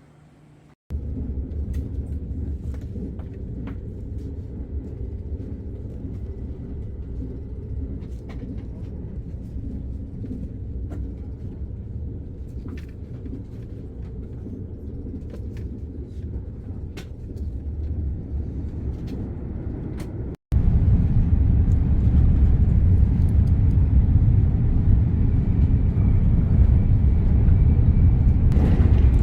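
Steady low road rumble inside a moving car, the drone of engine and tyres, with a few faint light ticks; it steps up louder about twenty seconds in.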